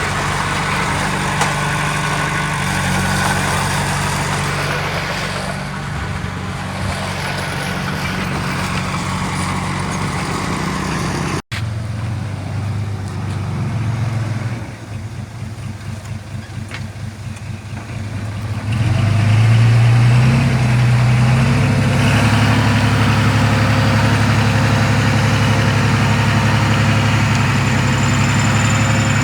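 Heavy earthmoving machine's diesel engine running steadily, with a brief break about a third of the way in. It is quieter for a few seconds after that, then louder and steady from about two-thirds in.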